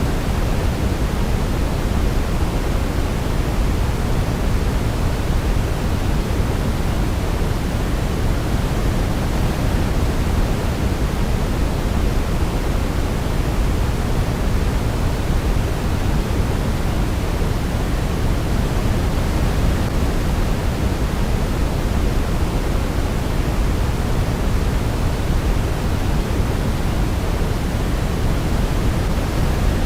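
Steady synthetic sleep noise: an even, unchanging hiss weighted toward the low end like pink noise, with no melody standing out.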